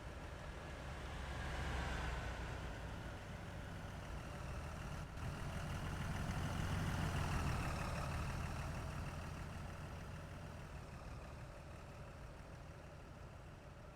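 Trucks passing on a highway. The engine and road noise swells as one goes by about two seconds in, and a louder one passes around seven seconds, then fades away.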